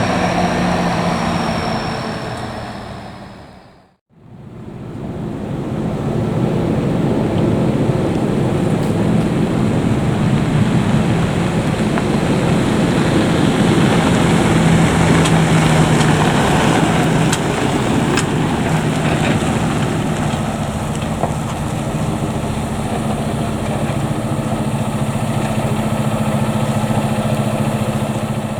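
Fire truck engine running steadily with a low hum under broad road and engine noise. The sound fades out about four seconds in, then comes back as the same steady engine noise.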